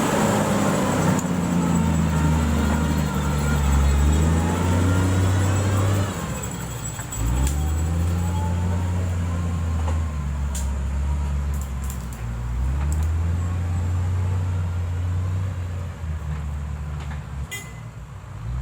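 Diesel engine of heavy road-building equipment running under load, its pitch rising and falling as the machine works, with a brief drop about seven seconds in.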